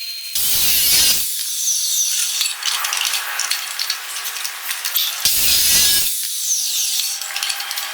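Power tool cutting or grinding, with a high motor whine that shifts in pitch, and heavier, fuller bursts about a second in and again past the middle.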